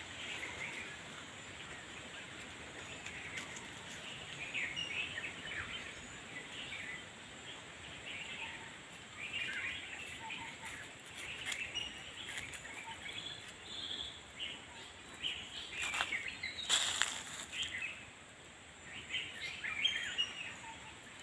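Wild birds chirping in short, scattered calls over steady background noise, with a couple of brief sharp noises about three-quarters of the way through.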